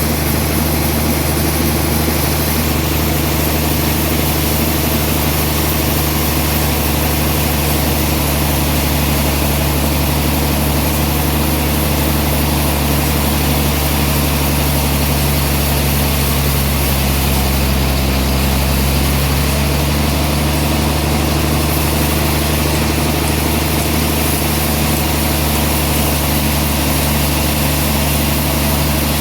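Sawmill machinery running steadily, a loud, even engine-like hum that swells slightly about two-thirds of the way through.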